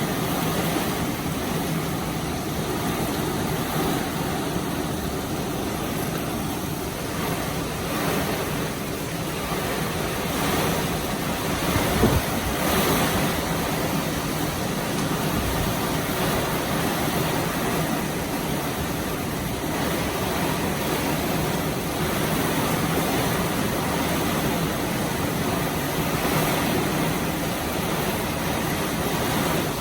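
Heavy tropical-storm rain and strong wind making a steady, even rushing noise, with a brief louder bump about twelve seconds in.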